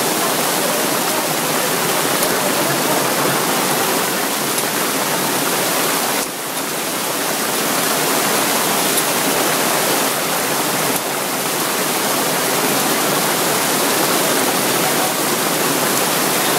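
Heavy rain pouring down with rushing water, a loud, steady hiss. It dips briefly about six seconds in and again near eleven seconds.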